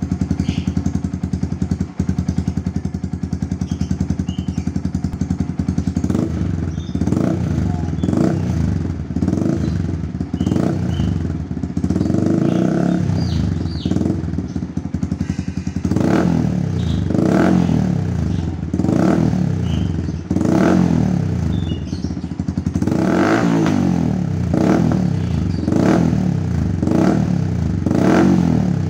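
Yamaha R15's single-cylinder four-stroke engine through an aftermarket stainless-steel short racing exhaust (Smoke Muffler M1 short). It idles steadily for about six seconds, then is revved in short throttle blips, roughly one a second, each rising and falling back to idle.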